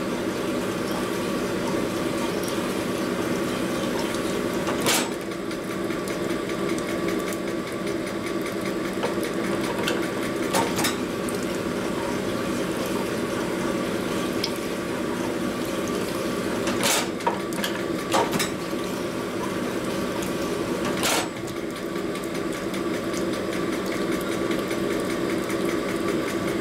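Honing machine motor running with a steady hum while Harley panhead rocker arm bores are stroked on the hone, with a handful of sharp clicks and knocks of the parts scattered through.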